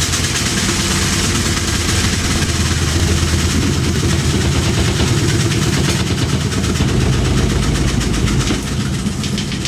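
Washing machine in its spin cycle, running with a steady low hum and a fast continuous rattle as the whole machine shakes, so hard that it walks across the floor, the sign of an off-balance spin.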